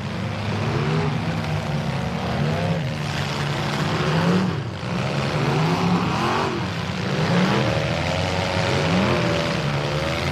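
Several mini truck engines revving up and down at once, their pitches rising and falling over one another.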